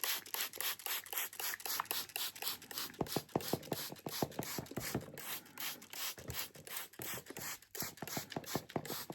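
Hand spray bottle squeezed over and over, misting moss in a tarantula enclosure to soak it: a quick run of short hissing spritzes, several a second.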